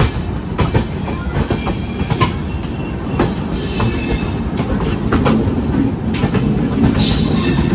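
Gatimaan Express coach running out of the station, heard from its open door: a steady rumble of the wheels on the rails with irregular clacks as they cross rail joints and points, slowly growing louder as the train picks up speed.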